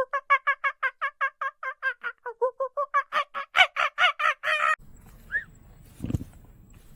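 A domestic fowl calling in a long, rapid series of harsh pulses, about seven a second, which breaks off sharply; a few short chirps and a knock follow.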